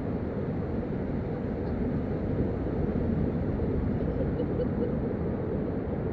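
Steady low rumbling noise, even and unbroken, with no distinct tones or knocks.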